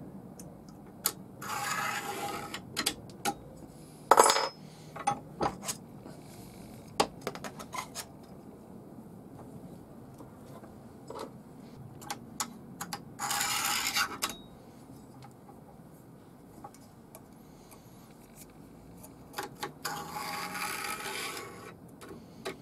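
A small metal tool scraping along the groove of a chainsaw guide bar held in a vise, clearing out packed muck: three longer scrapes of a second or two each, with scattered sharp clicks and taps of metal between them.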